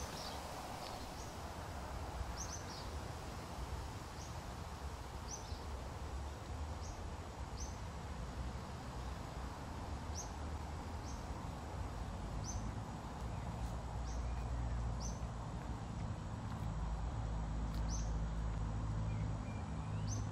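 A bird repeating a short, high, falling call note every second or so. Under it is a steady low rumble of outdoor background noise.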